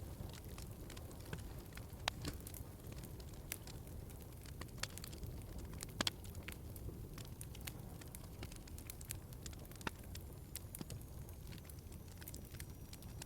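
Wood fire crackling in a fireplace: a low steady rumble of burning with scattered sharp pops and snaps, the loudest about two and six seconds in.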